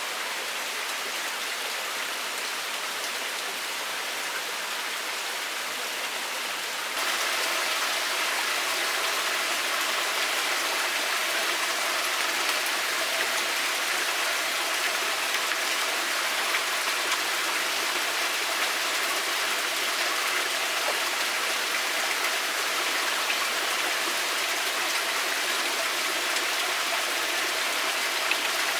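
Steady, dense hiss of water in the forest, with no tones or voices. It gets suddenly louder about seven seconds in, then holds steady.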